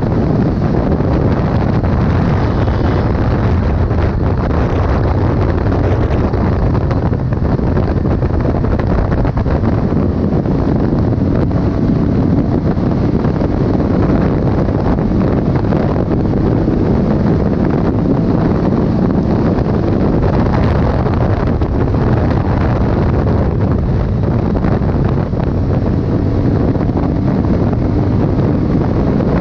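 Steady wind buffeting the microphone over a continuous low rumble of a moving vehicle.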